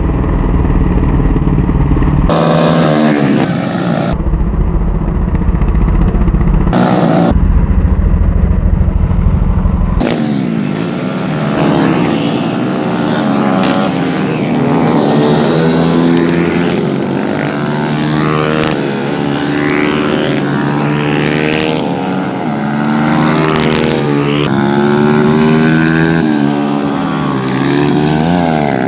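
Several racing motorcycle engines revving hard. From about a third of the way in, their pitches overlap and sweep up and down as the bikes accelerate and pass.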